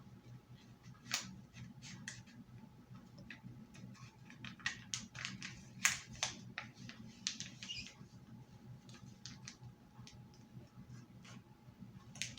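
A sheet of paper being folded and creased by hand: irregular crinkles and sharp little crackles, the loudest about a second in and near the middle.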